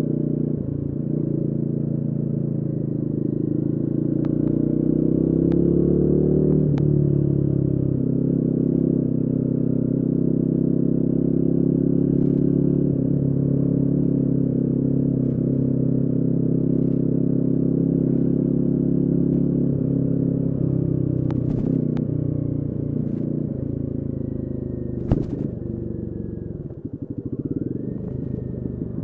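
Royal Enfield Guerrilla 450's single-cylinder engine running under way. It rises in pitch in the first several seconds as the bike accelerates, holds steady at cruising speed, then drops away in the last third as it slows. A few sharp clicks come in near the end.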